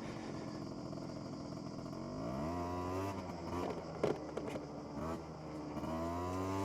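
SYM Jet2 50 two-stroke scooter engine with an EMS sport exhaust running on a trail. It speeds up about two seconds in, eases off, then rises again near the end, with a brief clatter about four seconds in.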